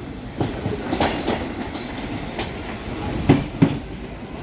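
New York City subway train running on the rails, its wheels clacking irregularly over rail joints above a steady rumble, with two sharp clacks just past three seconds in.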